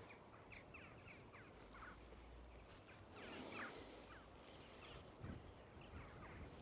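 Faint songbird song: a run of short, quick, falling chirps, with a brief gust of wind on the microphone about three seconds in.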